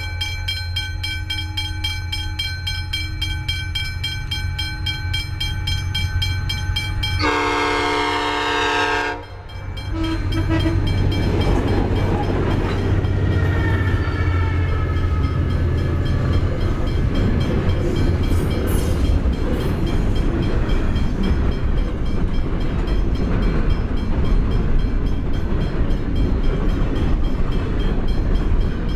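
A level crossing bell rings steadily while diesel locomotives approach with a low engine hum. About seven seconds in, the lead locomotive sounds its horn for about two seconds. The locomotives and a long train of container wagons then pass at speed with a steady heavy rumble and clatter of wheels on rail.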